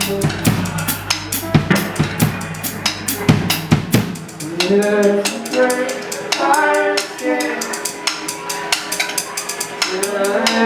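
Live rock band playing, led by a busy drum kit with bass drum and snare. About four seconds in, the low end drops out and a held, sliding melody comes in over lighter drumming.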